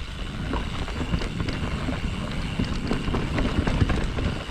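Mountain bike riding over a rough woodland trail: a steady rumble of tyres on dirt, with many small clicks and rattles from the bike.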